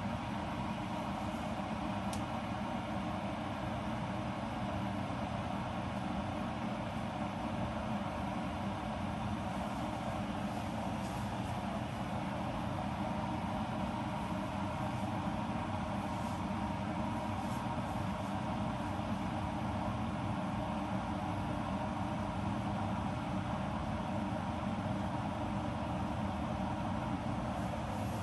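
Ovente 1.7-litre cordless electric kettle heating about half a litre of water: a steady noise of the water working up toward the boil.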